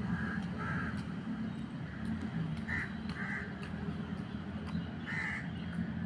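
A bird giving short, harsh caws, five in all: two pairs and then a single one near the end, over a steady low rumble.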